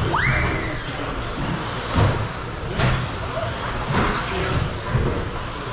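Radio-controlled stadium trucks racing round a track. A motor whine rises in pitch as a truck accelerates at the start, with sharp knocks about two and three seconds in.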